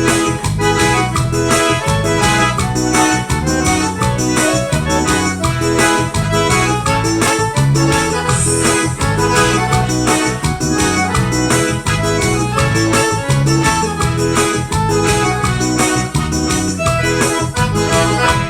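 Live forró band playing an instrumental stretch with a steady beat and a melodic lead on accordion-like keys.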